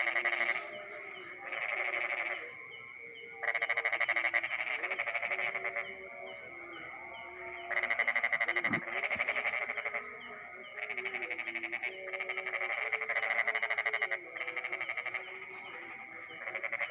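Night chorus of frogs giving rapid pulsed calls in bursts of one to two seconds, one after another with short gaps, over a steady high-pitched drone of insects.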